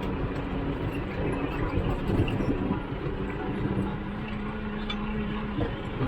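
Farm tractor engine running steadily with a constant droning hum.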